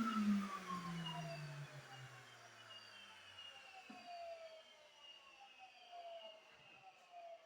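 Vacuum cleaner motor spinning down after being switched off, its whine falling steadily in pitch and fading away.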